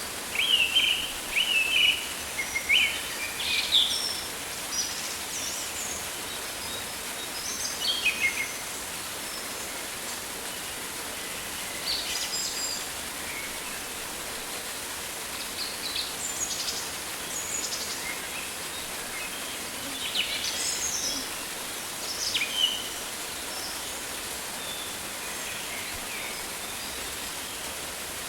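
Rainforest ambience: a steady hiss of rain or falling water with birds calling in short, scattered chirps and whistles, busiest in the first few seconds and again in clusters later on.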